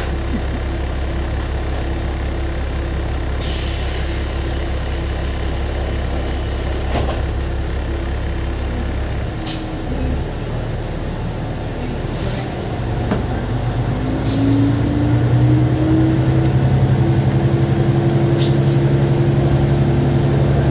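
Single-car diesel railcar heard from inside the cabin: the engine idles with a steady low hum, and a hiss of compressed air lasts about three seconds. After about twelve seconds the engine note rises and grows louder as the railcar pulls away under power.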